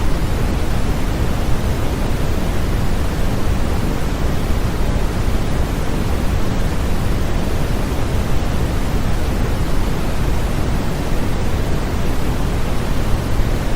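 Steady, unbroken white noise for infant sleep, an even hiss heavier in the low end than the high, with no changes.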